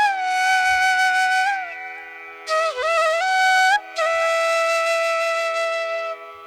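Background music: a solo flute playing slow held notes with sliding bends, over a steady drone, in three phrases with brief gaps.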